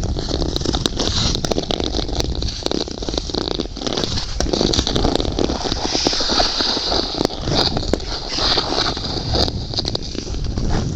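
Ice skates scraping and knocking on ice in a steady run of irregular clicks and hiss, with wind rumbling on the microphone.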